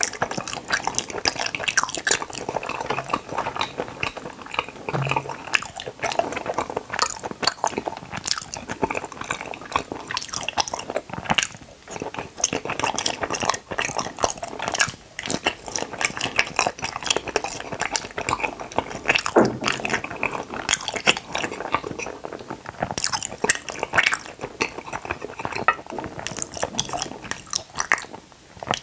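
A person chewing Kororo gummy jelly close to the microphone: wet squishing and dense clicking mouth sounds as the juice-filled gummies are bitten and burst.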